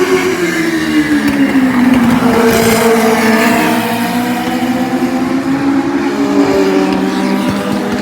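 A pack of Legends race cars running on track, their Yamaha motorcycle-derived four-cylinder engines revving at high pitch. Several engine notes sag over the first two seconds and then climb again as the cars come off and back onto the throttle.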